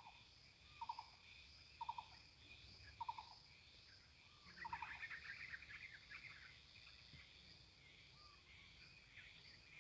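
Wild coucal calling: a series of short hooting notes about once a second, five in the first five seconds, over steady insect trilling. A burst of higher chirping from other birds comes around the middle.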